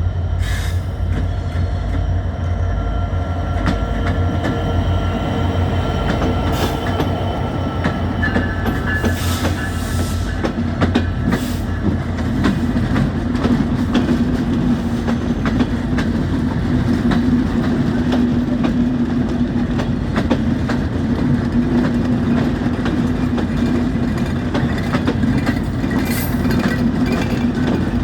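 Train running on rails: a steady heavy rumble with a continuous rattle of wheels, and a steady low hum that comes in about halfway through.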